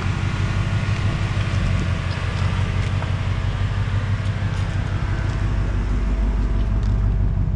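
Ford Mustang's engine running steadily, a low even hum that holds the same pitch throughout.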